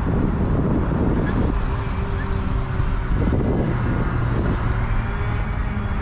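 Steady low outdoor rumble, with a low hum standing out of it twice, for a second or two each time.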